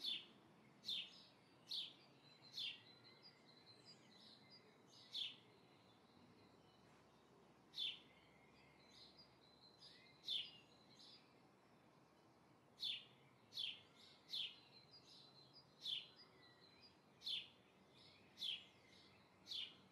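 A small bird chirping: short single chirps, faint, repeated roughly once a second with a few longer pauses.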